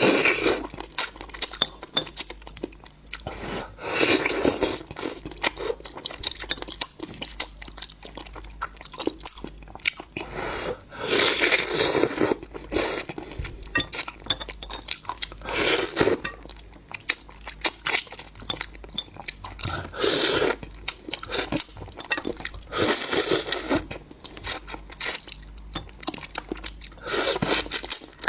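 Close-miked eating of seafood: loud crunching and chewing in spells every few seconds, with many small clicks and clinks of dishes or utensils between.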